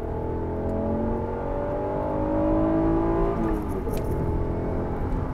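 First-generation Acura NSX's mid-mounted V6 accelerating hard at high revs, heard from inside the cabin. The engine note climbs steadily for about three seconds, drops as the car shifts up a gear, then keeps pulling.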